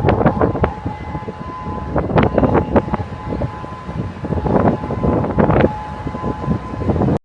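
A warning siren holding a steady two-note tone, heard under loud, gusty wind buffeting the microphone.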